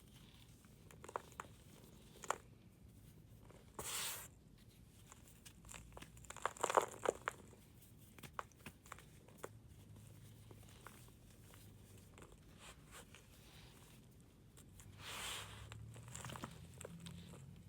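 A pressed powder block being crumbled and shaved, giving scattered small crunches and crackles. The loudest cluster of crunches comes about seven seconds in, with short soft scraping hisses around four and fifteen seconds.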